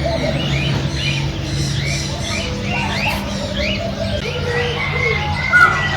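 A chorus of many small birds chirping, with short rising calls coming again and again, and one louder call about five and a half seconds in.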